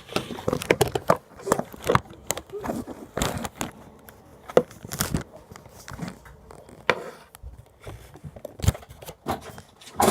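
Irregular crackles, clicks and crinkling from hands handling slime and its plastic container.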